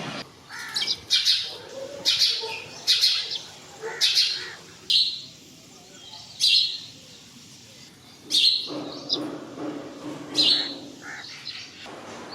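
House sparrow chirping: a series of short, sharp "cheep" notes at irregular intervals, with a brief lull midway.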